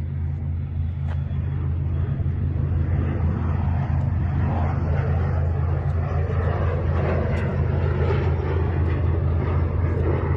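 Jet airliner's engines, the noise building steadily louder over a few seconds as the plane comes closer.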